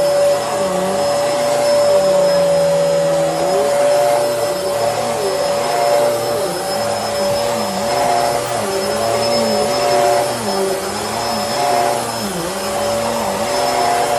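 Bissell Helix upright vacuum cleaner running steadily with a high motor whine. Its lower hum dips and recovers in an even rhythm, about once a second, as it is worked back and forth.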